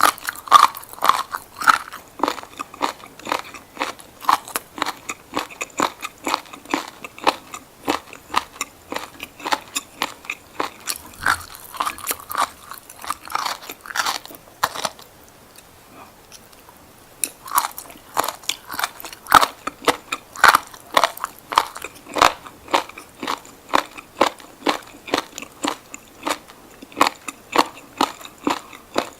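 Close-miked crunchy biting and chewing of raw seaweed, a rapid run of crisp crunches with a short pause of about two seconds midway before chewing resumes.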